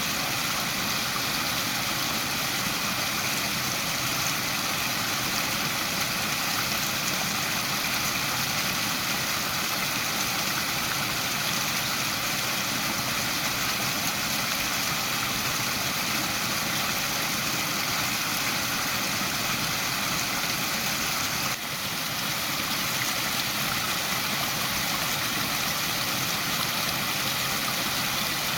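Waterfall: water falling and rushing steadily, an even unbroken hiss and rumble, with a momentary dip in level about two-thirds of the way through.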